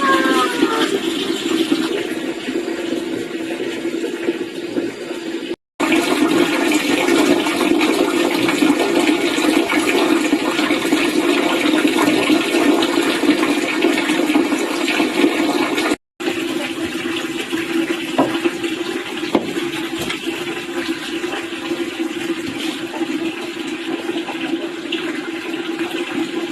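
Steady rush of running water over a constant low hum, broken twice by brief cuts to silence.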